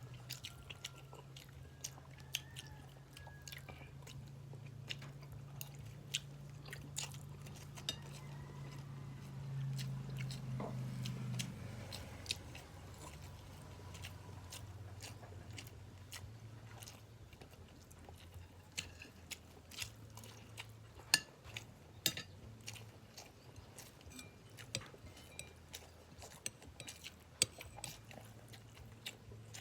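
Close-up mouth sounds of someone eating fried milkfish and rice: chewing and biting, with many small clicks and smacks throughout. A low steady hum sits underneath, louder for about the first eleven seconds.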